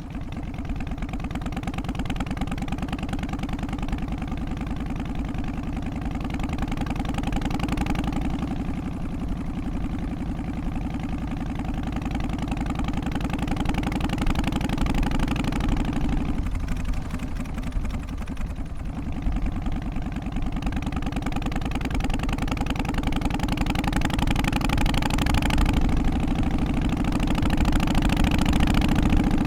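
Harley-Davidson FXST Softail's Twin Cam 88 V-twin engine running with its uneven three-beat rhythm. The level dips briefly a little past halfway, then rises slowly toward the end.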